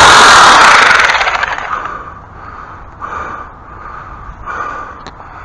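A loud motorized power tool running, then shut off about a second in and winding down over the next second, leaving only faint knocks and rustling.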